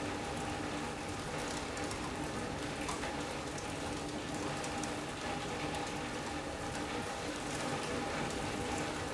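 Steady rain from a squall-line thunderstorm falling on a sunroom, heard from inside as an even hiss flecked with many small drop ticks.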